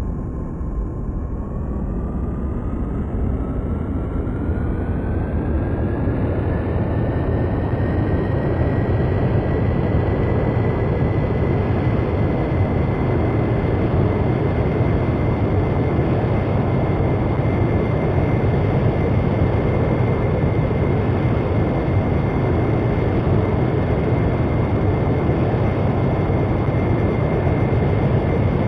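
Jet engines of a very large aircraft spooling up: a whine rises in pitch over the first several seconds under a dense roar, then holds steady at high power as the roar builds slightly.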